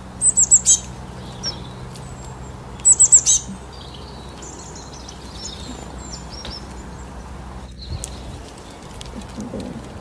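Small songbird calling: a quick run of four or five high, down-slurred chirps, repeated about three seconds later, with fainter chirps in between.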